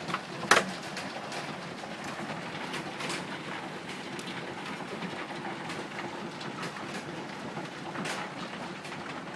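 Gumball-sized hailstones pelting the yard: a steady clatter of many impacts, with one sharp, loud hit about half a second in.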